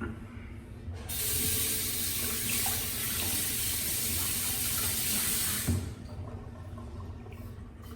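Sink tap running in a steady hiss for about four and a half seconds, turned on about a second in and shut off abruptly with a knock.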